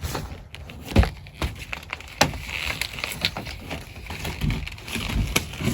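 Scattered knocks and scraping as a kneeling pad is knocked and dragged within reach across a crawl space. The sharpest knock comes about a second in, with a few more later.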